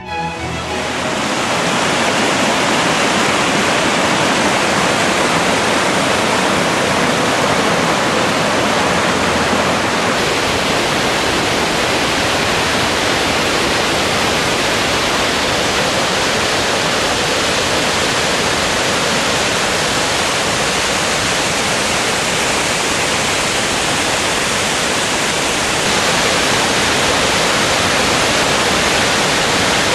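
Waterfall: a steady, dense rush of falling water that swells up over the first couple of seconds and then holds even.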